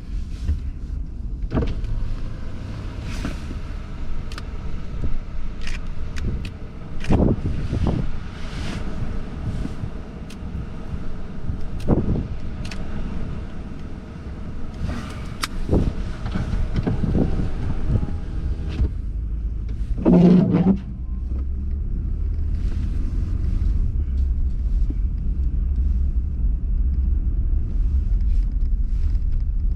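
Car driving: a steady low rumble with scattered clicks and knocks, and one short, louder pitched sound about twenty seconds in.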